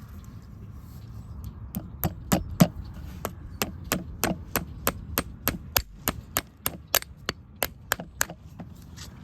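Farrier's hammer blows in a steady run, about three to four sharp strikes a second for several seconds.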